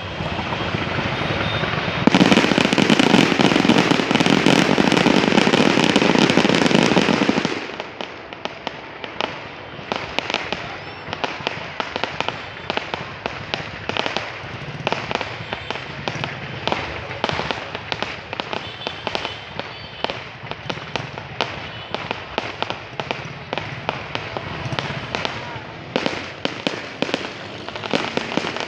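Fireworks going off: a dense, loud wall of crackling from about two seconds in to about seven seconds, then a steady stream of sharp pops and crackles.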